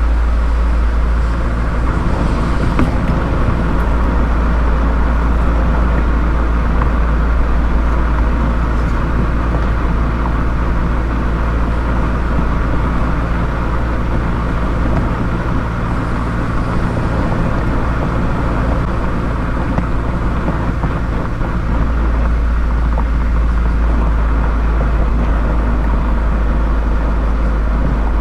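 Mazda MX-5 (ND Roadster) four-cylinder engine and exhaust droning steadily while cruising in traffic, with road noise; the engine note shifts about three-quarters of the way through.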